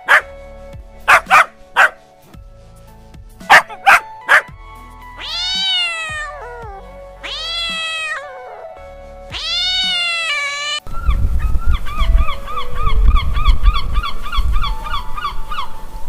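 A small dog barks in quick bursts of two or three, then a cat meows three times, each meow long and bending in pitch, over background music. About eleven seconds in the sound changes to a low rumble with quick repeated chirps, about three a second.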